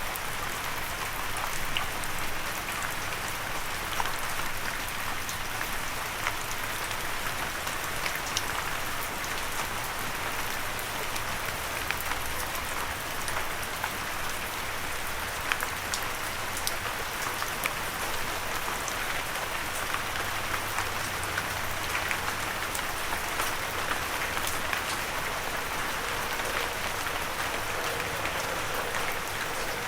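Steady light rain falling, an even patter with many small scattered drop ticks and no thunder.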